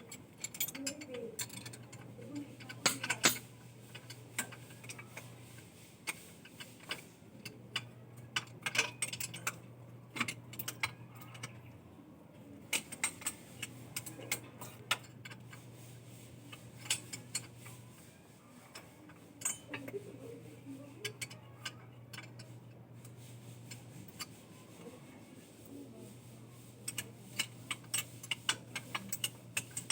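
Irregular metallic clicks and clinks of hand tools being handled during engine work. Underneath is a low hum that stops and starts every few seconds.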